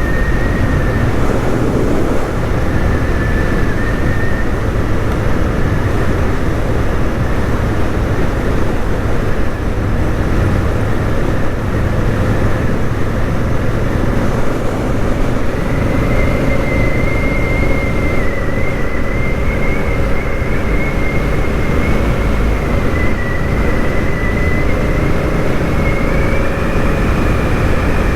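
Honda Africa Twin CRF1000L parallel-twin engine running steadily while riding along a gravel road. A thin, high, steady whistle comes in about halfway through.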